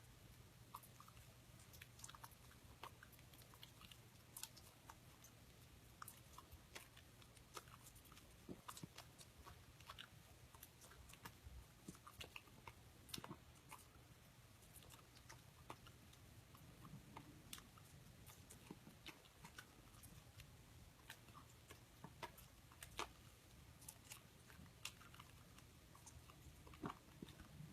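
Dog chewing and eating, faint irregular clicks and smacks of its mouth.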